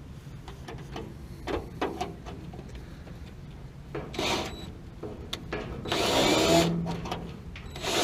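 A small power tool, like a cordless drill/driver, running in short bursts: a brief one about four seconds in and a louder one near six seconds in. Light clicks and knocks of handled tools and parts come before it.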